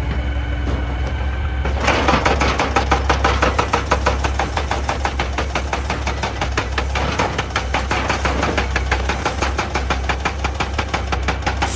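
Excavator diesel engine running steadily. About two seconds in, a hydraulic rock breaker starts hammering rapidly and evenly against stone.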